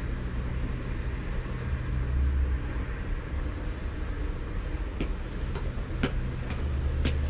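Heavy rain and gusty wind of an arriving thunderstorm, with a low steady rumble that swells now and then. About five seconds in come several sharp taps.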